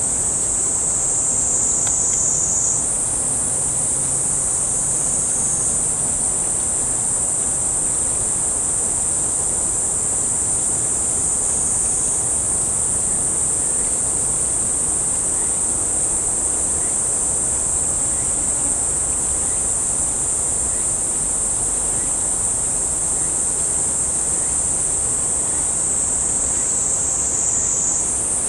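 A steady, high-pitched chorus of singing insects that runs without a break, its pitch stepping up slightly about three seconds in and back down near the end.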